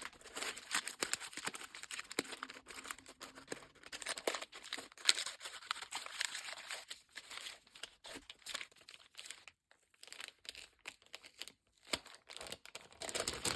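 Packaging being opened by hand: irregular crinkling, crackling and tearing, with short pauses near the end.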